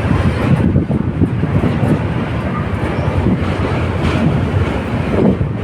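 Train running on rails: a steady loud rumble of wheels on track with light clattering.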